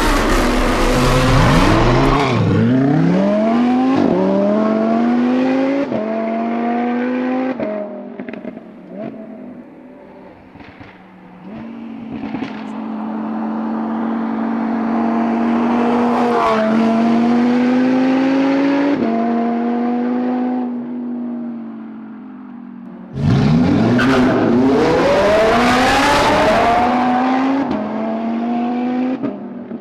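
Lamborghini supercar engine through a Novitec exhaust, accelerating hard up through the gears: its pitch climbs and drops back at each shift, several times over. When it lifts off there is a quieter spell with sharp exhaust cracks and pops. About two-thirds of the way in it surges back to full volume and pulls through the gears again.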